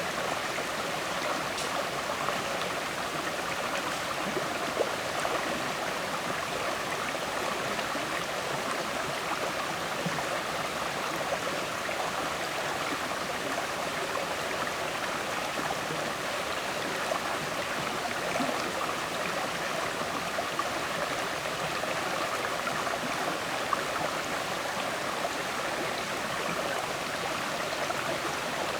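River water flowing steadily over rocks: an even rushing and gurgling with small splashes scattered through it.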